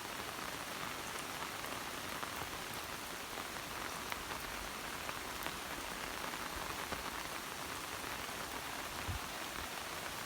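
Steady rain falling, with many small drop ticks on a near surface. A single low thump about nine seconds in.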